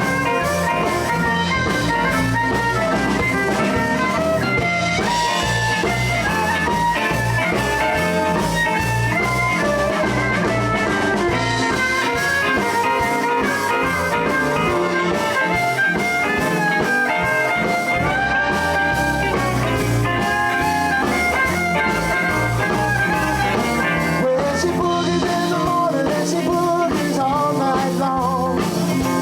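Live blues band playing an instrumental passage: a melodic lead line runs over drums and bass without vocals.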